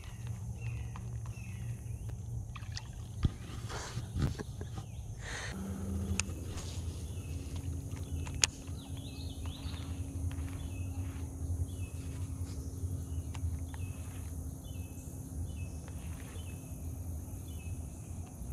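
Outdoor ambience with a steady low rumble and a bird calling in short chirps that repeat every half second or so. Two sharp knocks come about three and eight seconds in, and a low steady tone runs through the middle.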